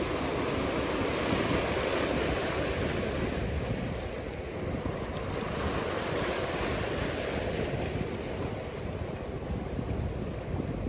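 Ocean surf washing and breaking in a steady wash that swells and eases, with wind rumbling on the microphone.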